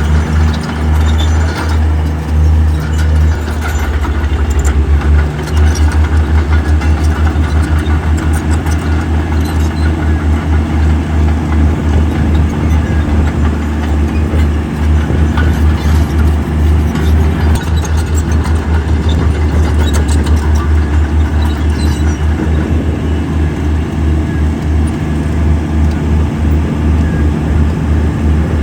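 Heavy diesel earthmoving machinery running with a deep, rapid throb, with scattered short clanks over it.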